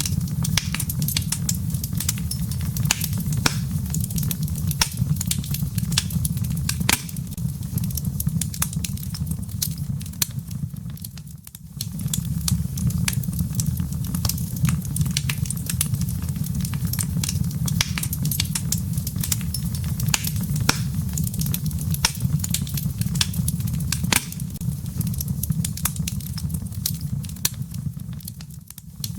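Wood fire burning in a fireplace: a steady low rumble of flames with frequent sharp crackles and pops from the burning firewood. The sound fades briefly about eleven seconds in and again near the end.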